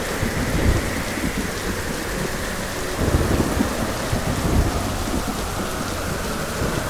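Heavy rain falling steadily with repeated low rumbles of thunder.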